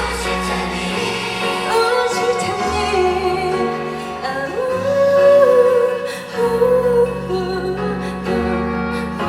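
Live performance of a Korean pop ballad: a female singer sings sustained, wordless-sounding notes over band and keyboard accompaniment. About halfway through, her voice slides up into a long held note.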